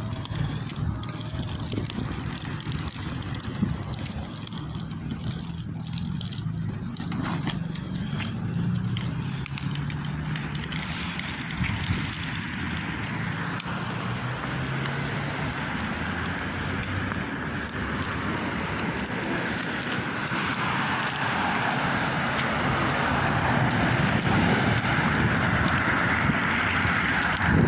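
Motorcycle engine running, its pitch shifting up and down now and then. A broader rushing noise grows louder over the last several seconds.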